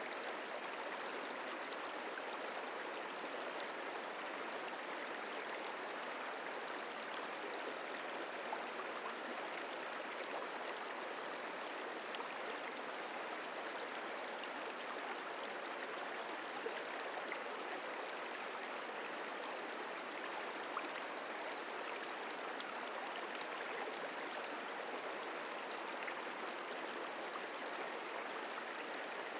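Merced River running steadily over its bed in winter flow: an even rushing of water with faint small splashes.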